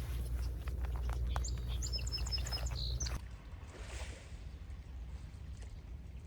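A small bird chirping a quick run of short, high notes for about a second and a half, over a low rumble and a few sharp clicks. About three seconds in, the sound cuts abruptly to a quieter, softly swelling hiss.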